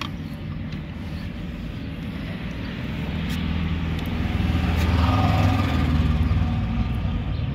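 A car engine running with a steady low hum, growing louder over the middle few seconds and easing off near the end.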